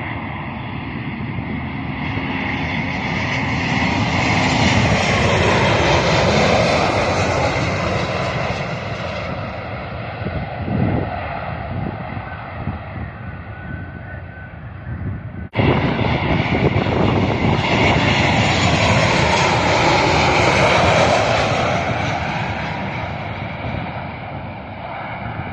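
Passenger jets flying low overhead: the engine roar swells to a peak and fades with a sweeping pitch. It breaks off abruptly about fifteen seconds in, then a second jet swells and fades the same way.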